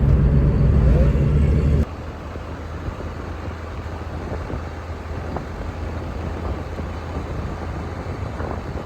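Steady rush of a waterfall, with a deep rumble under it. It is louder for about the first two seconds, then drops abruptly to a quieter, even rush.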